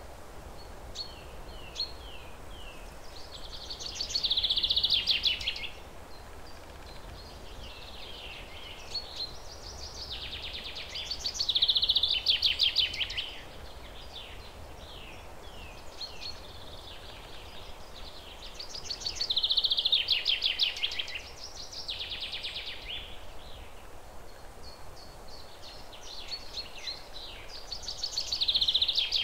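Birdsong: short falling chirps building into a loud, fast trill, the phrase repeating about every eight seconds, over a steady faint hiss.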